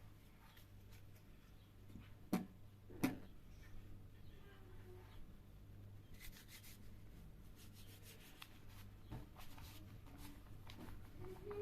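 Soft rubbing and handling sounds, with two sharp clicks about two and three seconds in.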